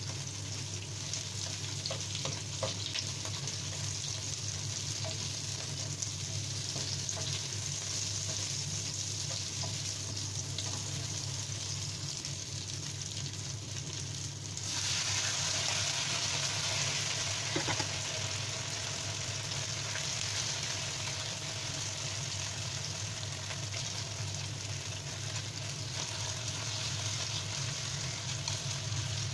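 Sliced onions sizzling in hot oil in a nonstick wok, with light ticks and scrapes from a plastic spatula stirring them. About halfway through, marinated chicken pieces are tipped into the pan and the sizzle suddenly turns louder and hissier, and it stays that way.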